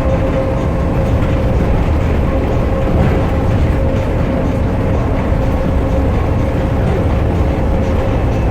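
Las Vegas Monorail train running between stations, heard from inside the car: a steady rumble of its rubber tyres on the concrete guideway with a steady whine.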